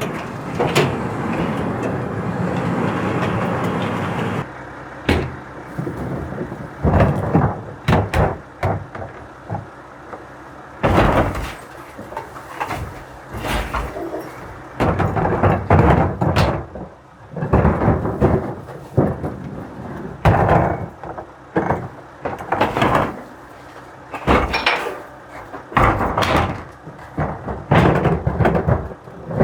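Garbage truck at work on a collection route: a steady running noise for about four seconds, then a long run of irregular metal bangs, clanks and slams.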